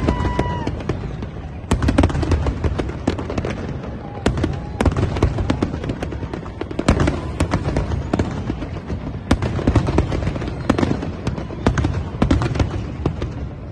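Fireworks display: a dense run of bangs and crackling bursts over a low rumble, easing off near the end.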